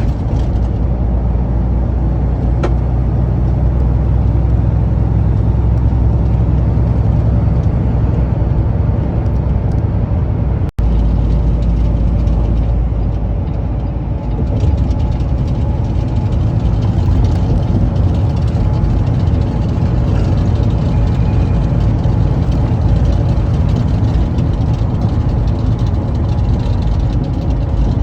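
Vehicle on the road, a steady low engine and road rumble, with a momentary break in the sound about eleven seconds in.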